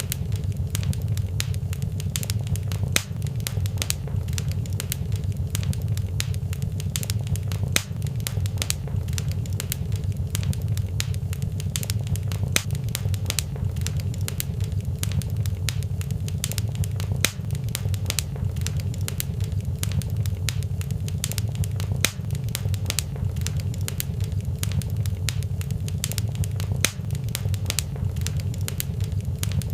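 Fireplace fire crackling, with dense, irregular sharp pops and snaps over a steady low rumble.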